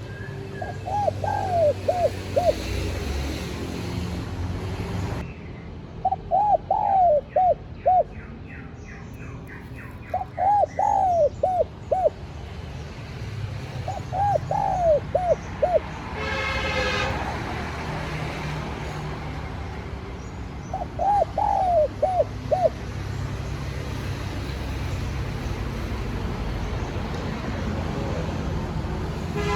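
Spotted dove cooing: five phrases of about four quick notes each, several seconds apart, over a steady low rumble. A brief, higher, harsher sound comes about two-thirds of the way through.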